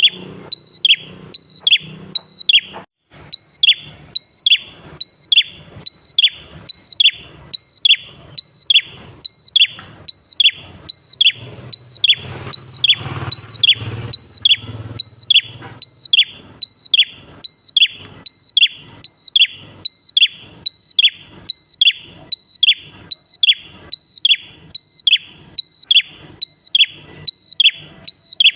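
Prenjak klawu (a prinia) singing a loud, fast, regular series of the same call, about two a second. Each call is a short high note that drops in a quick downward slide, the gacor song used as a lure to get other prinias singing.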